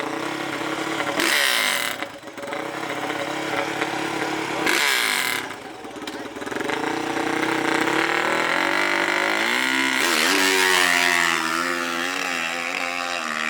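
Dirt bike engines running and revving: two short throttle blips that fall away in the first few seconds, then a longer climb in revs that holds high over the second half.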